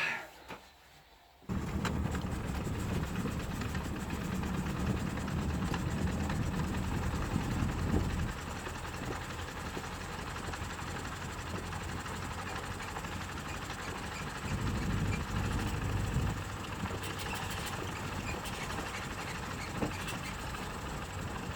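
A motor vehicle's engine running steadily. It comes in suddenly about a second and a half in and is louder for the first several seconds and again briefly about two thirds of the way through.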